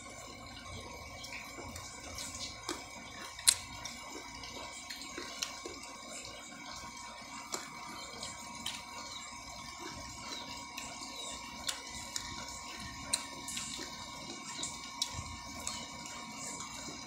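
Close-up eating sounds of someone biting and chewing sineguelas (Spanish plum) fruit: scattered wet mouth clicks and smacks, the sharpest about three and a half seconds in, over a steady faint background hiss.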